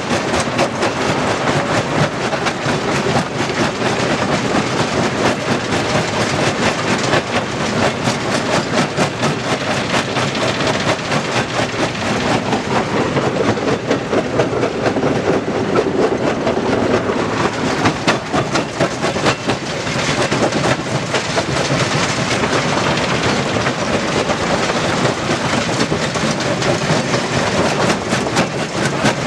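Stone crusher running, with a dense continuous clatter and rattle of rock being broken and shaken through the machine.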